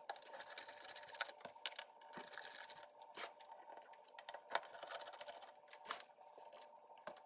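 Screwdriver working the screws out of a computer power supply's metal case: scattered small clicks and scrapes of metal on metal, over a faint steady hum.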